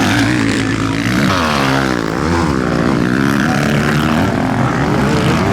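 Several motocross bike engines racing, revving up and down with the throttle, the pitch sweeping down and back up between about one and two and a half seconds in.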